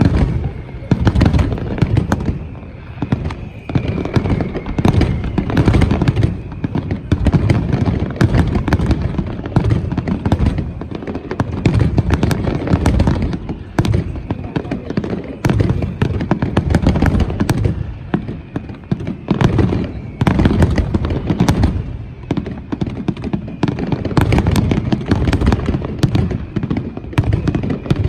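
Fireworks display: a dense, unbroken barrage of loud bangs, several a second.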